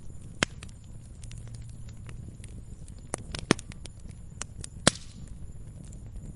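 Wood fire crackling in a fireplace: irregular sharp pops and snaps over a low, steady rumble. Three pops stand out as the loudest, about half a second in, three and a half seconds in, and near five seconds in.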